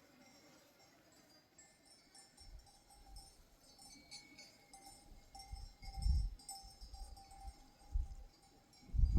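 Faint jingling of the bells worn by a grazing sheep flock, with a thin steady ringing tone beneath. Irregular low thuds come in after about two seconds, loudest about six seconds in.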